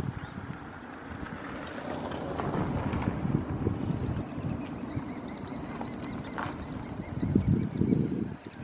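Low rumble of wind buffeting the microphone. From about four seconds in, a bird gives a fast run of short, high, thin chirps that lasts about four seconds.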